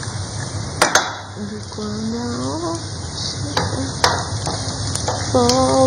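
Kitchen noise: a steady hiss with a few sharp clinks, and two brief, faint snatches of voices.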